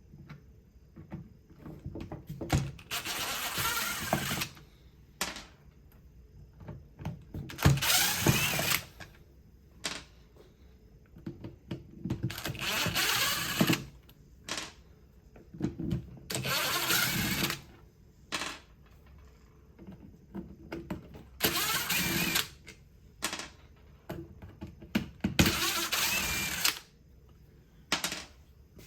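DeWalt cordless driver with a T20 bit backing out screws from a power-tool housing: six short runs of the motor, each a second or so, with small clicks and handling noises between them.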